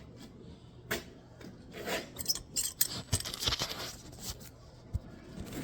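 Scattered light clicks and short scraping, rustling sounds, like parts and tools being handled, most of them between about two and four seconds in.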